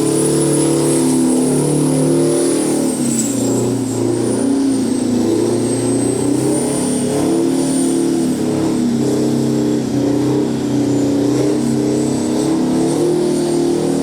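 Detroit 16V92 two-stroke diesel, twin-supercharged and turbocharged, held at high revs during a truck burnout. The pitch dips briefly about three seconds in and then holds steady, with a thin high whine wavering above it.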